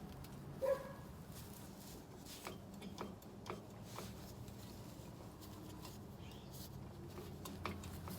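Faint scattered clicks and light taps, with one short ringing clink about a second in, over a low steady hum.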